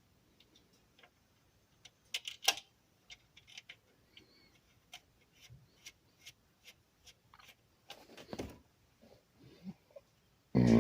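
Scattered light clicks and taps of hand tools and small parts being handled while a carburetor is refitted to a small engine, with a louder cluster of clicks about two seconds in and a brief scuffing noise about eight seconds in.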